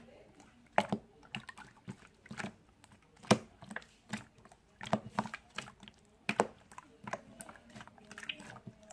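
Typing on a keyboard: irregular, unevenly spaced key clicks, a few strokes a second.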